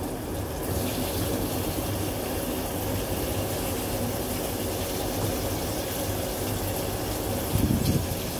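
Food sizzling in hot oil in a wok as pieces are laid in to fry. The hiss sets in about a second in and holds steady, with a brief low rumble near the end.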